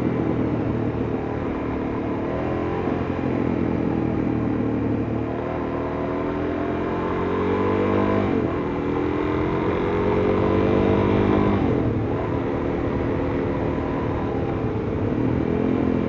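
Suzuki DR-Z400S single-cylinder four-stroke engine running under way through its aftermarket muffler. Its pitch climbs steadily and falls back sharply about eight seconds in and again about twelve seconds in.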